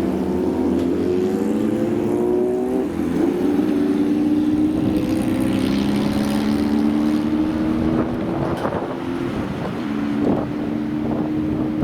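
Motorcycle engine running, its pitch rising gently in the first few seconds and then holding steady, with a few sharp crackles past the middle.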